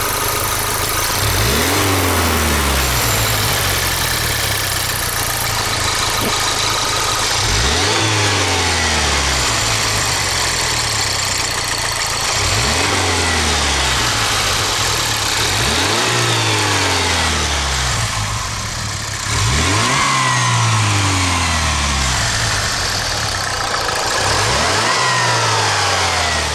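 Engine revved again and again, about every three seconds, each time rising quickly in pitch and then falling back to idle. It makes a cracking noise when revved, the fault the owner is trying to track down.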